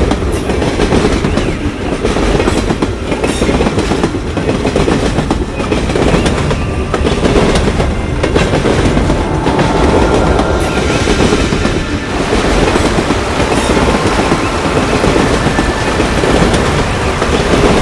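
A passenger train running along the track, its wheels clattering steadily over the rail joints.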